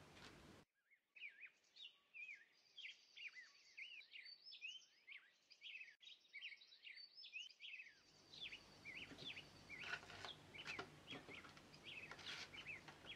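Faint, busy chirping of small birds: many short chirps, each quickly rising or falling in pitch, following one another with no pause. A few soft taps come in over the chirping in the later part.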